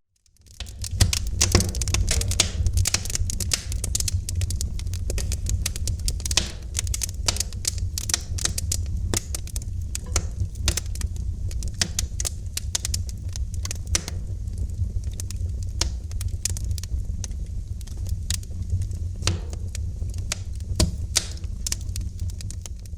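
Wood fire in a fireplace crackling: dense, irregular sharp pops and snaps over a steady low rumble of the burning fire. It fades in during the first second and fades out near the end.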